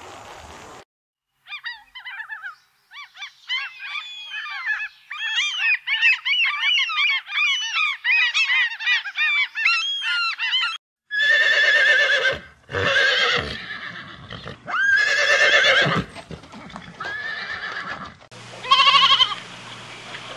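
A run of animal calls. First come several seconds of dense, high chirping. Then a gull gives loud calls in about four bouts, and near the end a goat starts bleating.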